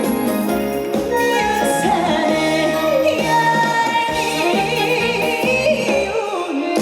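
Live trot music: a female singer's ornamented, wavering vocal over a full band backing.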